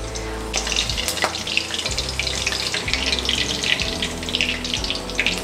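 Slit green chillies frying in hot oil, a steady crackling sizzle that starts about half a second in, with a single click about a second in.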